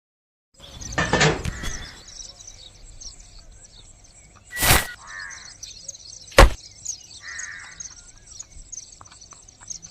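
Birds chirping in the background, broken by sharp cracks: a longer one about a second in and two short, loud ones about four and a half and six and a half seconds in.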